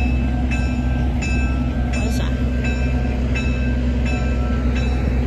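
Passenger train coach running along the tracks, heard from inside the car: a steady low rumble with short metallic clacks repeating about every two-thirds of a second.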